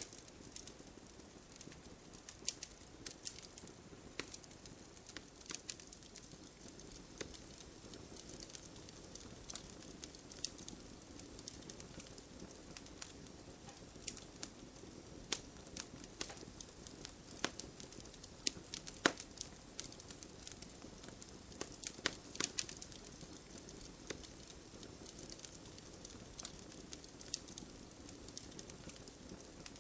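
Wood fire crackling, with irregular sharp pops and snaps, some much louder than the rest, over a faint steady patter of rain.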